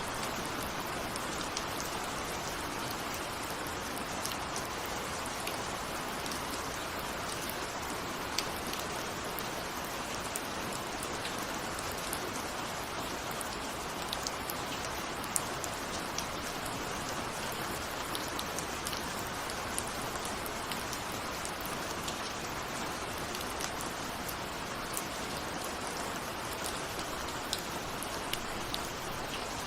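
Steady rain falling, an even hiss with scattered sharp drop ticks, the sound of raindrops on a window.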